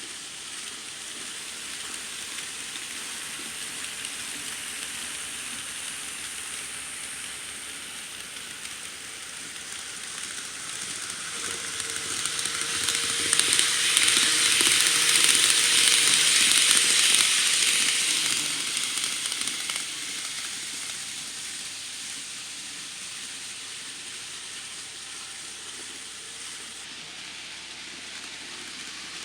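N scale model Shinkansen trains running on the track: a steady hiss of wheels rolling on rails that swells as a train passes close, loudest between about 12 and 18 seconds in, with a faint steady motor hum, then settles back down.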